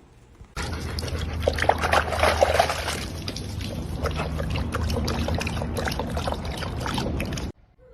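Water splashing and trickling, with a steady low rumble underneath; it starts suddenly about half a second in and cuts off abruptly near the end.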